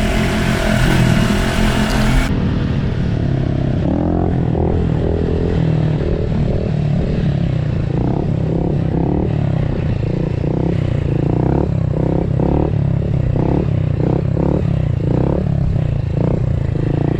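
Pit-bike engines running along the road, the pitch swelling up and down as the riders work the throttle, over a steady low engine drone. Wind rushes over the microphone for the first two seconds and then stops abruptly.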